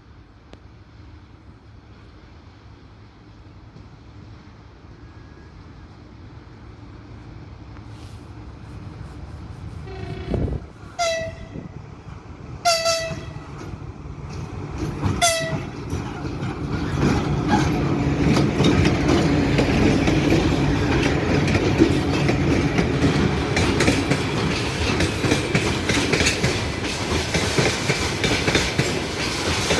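A train on an electric railway line approaching and growing steadily louder, sounding three short horn blasts about halfway through. It then passes close by, with a loud running rumble and wheels clattering over the rail joints.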